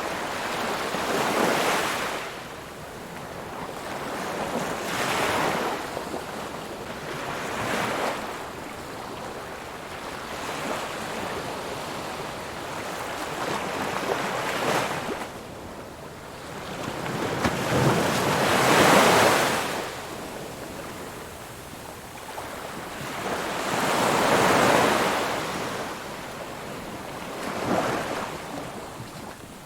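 Ocean surf: waves breaking and washing in, the rushing sound swelling and fading every few seconds, with the biggest wave a little past the middle.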